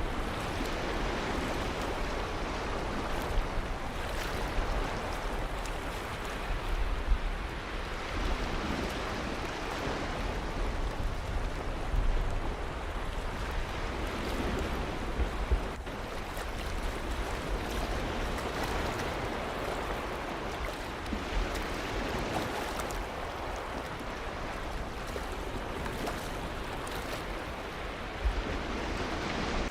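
Ocean surf breaking and washing on a shore: a continuous rushing that swells and eases every few seconds, with a low rumble underneath.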